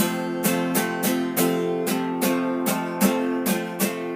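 Acoustic guitar strummed in a steady rhythm, about three strums a second, over sustained chords.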